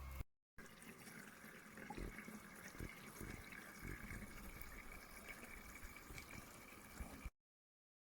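Faint trickling water with a few soft low thumps. It cuts off abruptly near the end.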